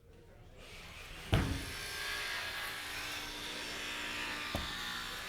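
Electric jigsaw running steadily, with a sharp knock a little over a second in as the run settles.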